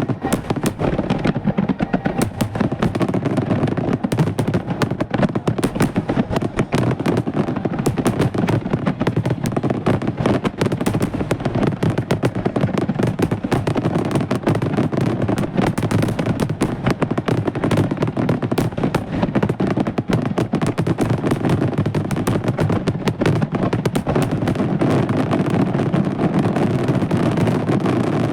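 Grand-finale fireworks barrage: aerial shells and crackling effects bursting in a dense, unbroken stream of many reports a second over a continuous low rumble.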